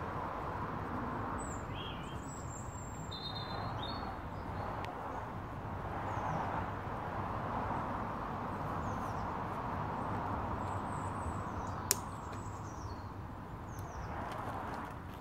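Small birds chirping now and then over a steady background hiss, with a single sharp click near the end.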